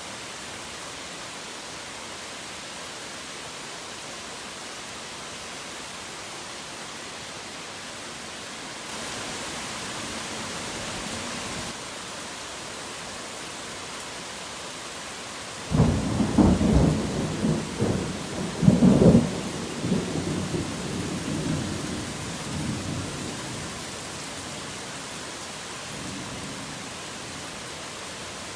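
Steady heavy rain hissing, briefly heavier about a third of the way in. Past the halfway mark a sudden crack of thunder breaks into a crackling rumble with a second loud peak, fading over several seconds, and a faint distant rumble follows near the end.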